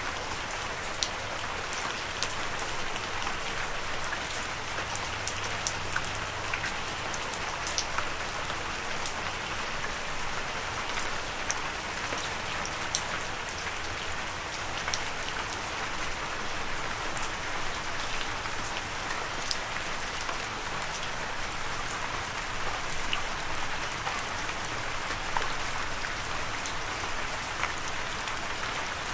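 Steady rain falling, a continuous hiss of rainfall with many scattered individual drops pattering on a surface.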